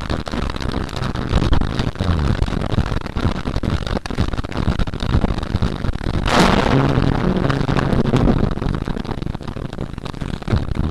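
Thunderstorm noise: a loud, continuous rumble dense with crackle, and a sharper, louder thunderclap about six seconds in.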